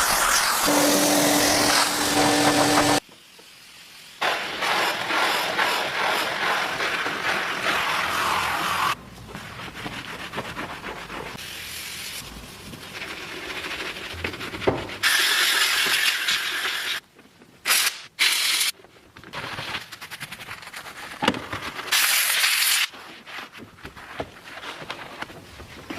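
Car-detailing work on a truck: scrubbing and rubbing noises in a run of short segments that start and stop abruptly, some with a strong high hiss, and a few sharp clicks.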